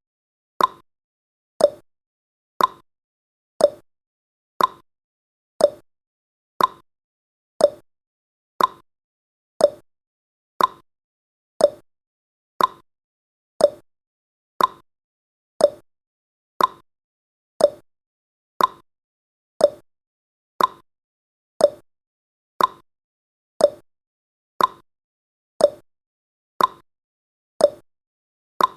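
Countdown timer's clock-ticking sound effect: sharp ticks about once a second, alternating between a higher and a lower tick like a tick-tock.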